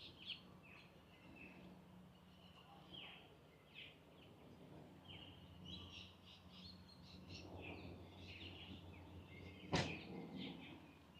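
Faint birds chirping in many short, quick calls, over a steady low hum. A single sharp knock about ten seconds in.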